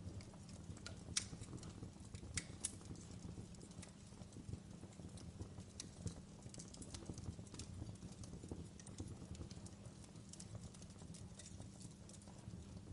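Wood fire burning in a fireplace: irregular sharp crackles and pops, the loudest about a second in and twice more around two and a half seconds in, over a low steady rumble of the flames.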